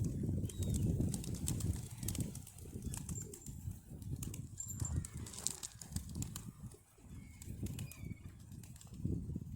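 Wind buffeting the microphone in uneven gusts, with faint short bird chirps and a few light clicks over it.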